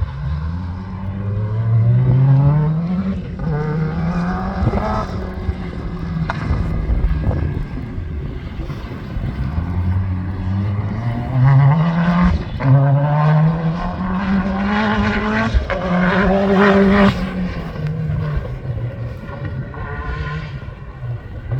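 Off-road competition car's engine under hard acceleration. Its pitch climbs and drops back again and again, as through gear changes and lifts off the throttle.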